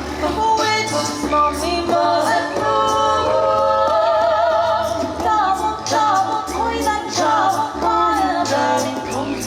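A small choir singing a cappella in several parts, with the high female voices prominent. A low bass line repeats in short notes about every second.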